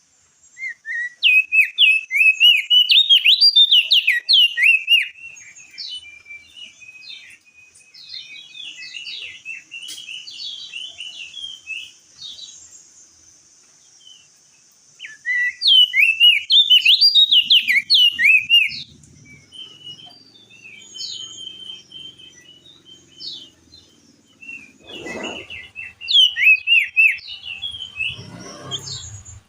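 Crested white-eye (opior jambul) singing in loud bursts of rapid, high warbling chirps, three times: near the start, about midway and near the end, with softer twittering between. Two dull low thumps come near the end.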